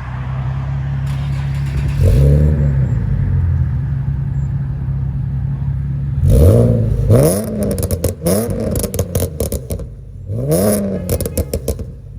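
Nissan Skyline V36's V6 engine through a custom exhaust, idling and revved in place: one rev about two seconds in, then a cluster of sharp throttle blips from about the middle on, each rising and falling in pitch. Quick crackles follow as the revs drop, and it settles back to a steady idle near the end.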